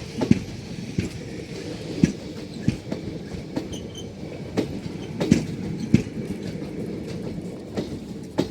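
Passenger train running on the track: its wheels knock with a clickety-clack over rail joints at uneven intervals, over a steady low rumble.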